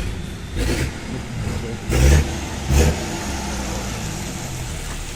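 Motor vehicle engine and traffic running as a steady low rumble, with short loud bursts about two seconds in and again near three seconds.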